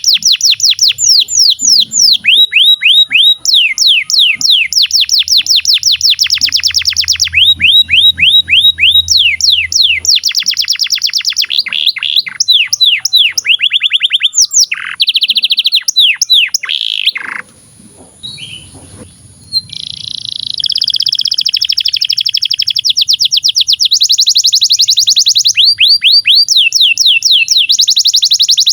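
Canary singing a long, fast song: runs of rapidly repeated downward-sweeping notes that switch to a new trill every second or two, with a brief pause just past the middle.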